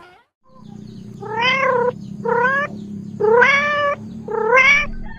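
An animal calling four times, about once a second, each call short and rising in pitch, over a steady low hum.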